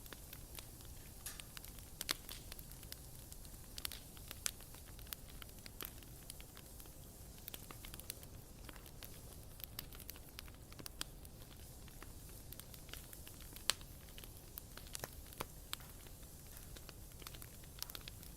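Bonfire burning: a steady low rumble of flame with frequent sharp, irregular crackles and pops of burning wood, one louder pop near the end.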